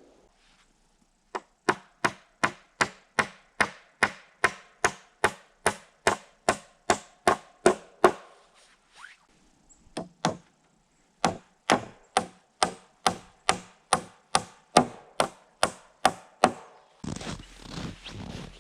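Rapid, evenly spaced knocks on wood, about three a second, in two long runs with a short pause between. Near the end a different, steadier noise cuts in.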